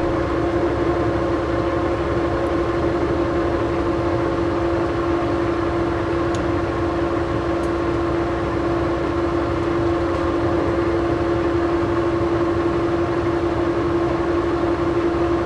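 Old Monarch engine lathe running steadily with an even mechanical hum, its pitch and level unchanging, while set up for cutting a 5/8-11 thread.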